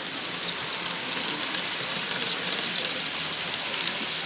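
Model train running along the layout's track: a steady, hiss-like rattle of small wheels on rail, growing slightly louder as it comes closer.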